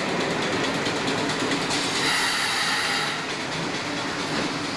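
Class 302 slam-door electric multiple unit running past along the platform, its wheels clicking rhythmically over the rail joints. A brief high squeal from the wheels about two seconds in.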